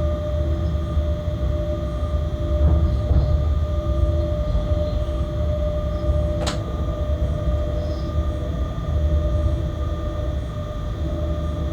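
Freight locomotive cab noise while running: a steady low rumble with a constant whine, and one sharp click about two-thirds of the way through.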